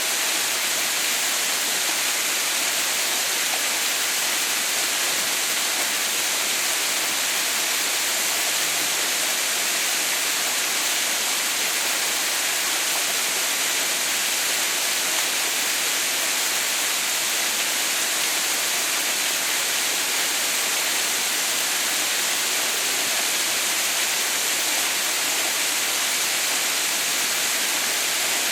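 A partly frozen waterfall, an icefall with water still falling: a steady, even rush of water with a bright hiss.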